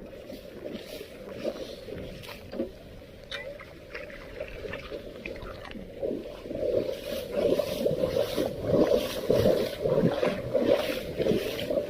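Floodwater sloshing and splashing around a clogged storm drain as it is worked clear by hand. The splashing gets louder and busier about halfway through.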